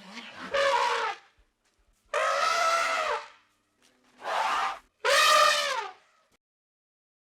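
An animal calling: four loud, drawn-out calls, each under a second, with a pitch that bends up and down, separated by short silences.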